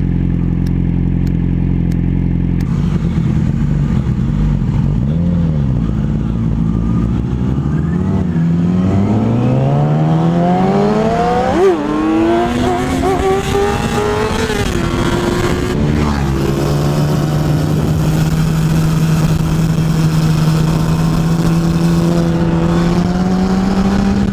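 Motorcycle engine heard on a ride. The engine note holds steady at first, then climbs for several seconds as the bike accelerates, with gear changes about twelve and sixteen seconds in, and then settles to a steady cruising note.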